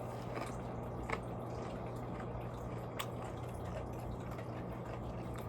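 A steady low hum under faint room noise, with a few soft wet clicks of someone eating.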